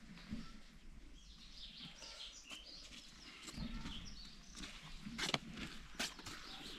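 Faint outdoor ambience of birds chirping, with two sharp knocks about five and six seconds in.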